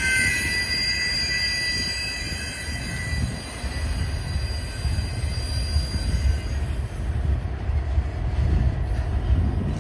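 Double-stack intermodal freight train rolling slowly past with a steady low rumble of the cars on the rails. A high-pitched squeal of several tones fades out in the first few seconds as the train slows to a stop.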